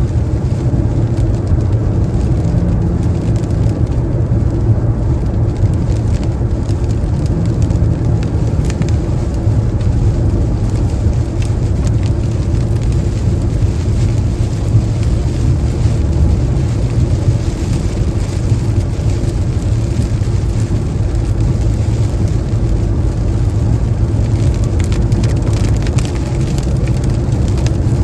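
Car driving on the interstate in the rain: a steady low road rumble with the sound of rain over it.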